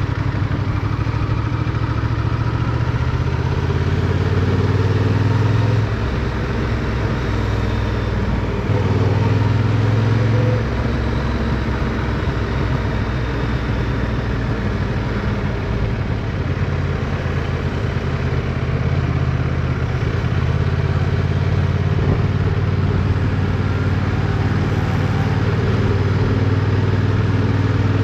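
Motorcycle engine running under way, heard from a camera mounted on the bike, its note rising and falling several times as the throttle opens and closes.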